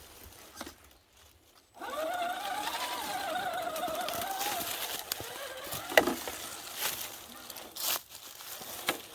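Electric motor of a radio-controlled car whining, its pitch wavering up and down with the throttle for about three seconds after a quiet start. Several sharp knocks and clicks follow, the loudest about six seconds in.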